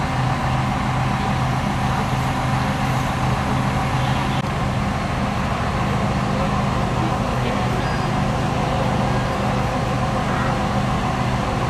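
Fire engine's diesel engine running steadily at a constant speed, a continuous low drone with a faint hum above it.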